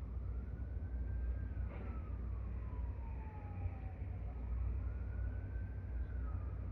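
A siren wailing slowly, its pitch rising and falling twice, over a steady low rumble.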